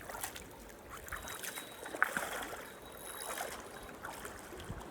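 Shallow creek water running, with scattered small clicks and knocks from close by, the sharpest about two seconds in.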